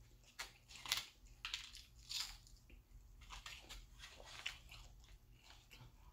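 A person chewing crunchy fried fish and shrimp close to the microphone: an uneven run of crisp crunches, loudest about one and two seconds in.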